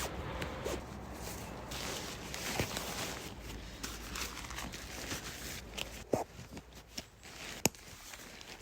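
Rustling and handling of camping gear during packing up, with scattered light clicks and knocks and one sharp click near the end.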